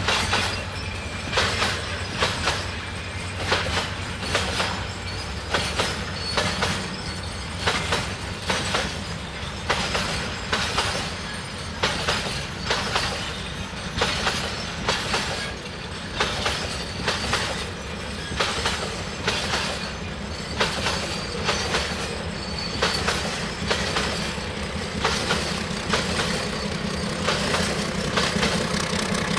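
Bogie oil-tank wagons of a long freight train rolling past, their wheels clacking over the rail joints in a steady rhythm over a low rumble. Near the end the low drone of an approaching diesel locomotive grows louder.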